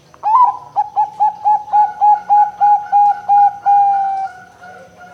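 Perkutut (zebra dove) of the Bangkok song line cooing: a rising opening note, about eleven quick evenly spaced short coos, then one long held note that fades out about four seconds in.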